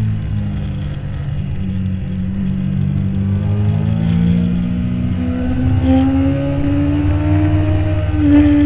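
Stock 2008 Kawasaki ZX-10R inline-four engine heard close from an onboard camera behind the windscreen: the engine note holds low through a corner, then rises steadily as the bike accelerates out, getting louder near the end.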